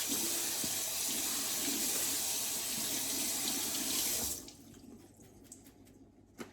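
Kitchen tap running a steady stream into the sink, shut off about four seconds in.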